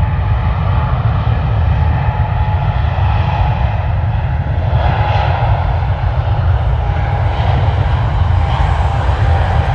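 Jet airliner engines running, a loud steady rumble with a faint high whine over it.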